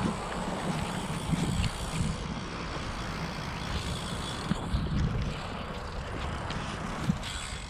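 Wind buffeting the microphone over the tyre and road noise of a carbon road bike riding along, with a few light clicks.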